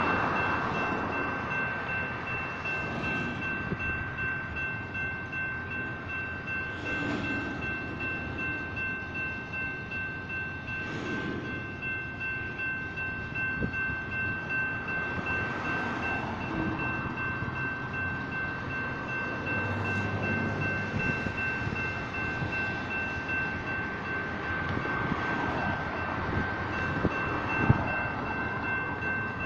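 Double-stack intermodal freight train rolling past, its cars rumbling with the wheels knocking on the rails, while the grade crossing's General Signals electronic bells ring steadily on one high two-note tone.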